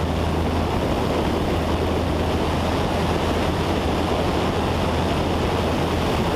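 Cessna 172's four-cylinder piston engine and propeller at full takeoff power, a steady drone with rushing air noise over a constant low hum, during the takeoff roll and rotation.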